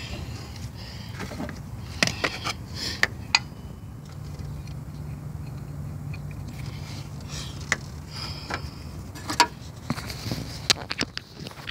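Scattered metallic clicks and clinks of hand tools, a socket and ratchet on the bolts, as a new belt tensioner is fitted to a Chevy 3.4L V6, over a low steady hum.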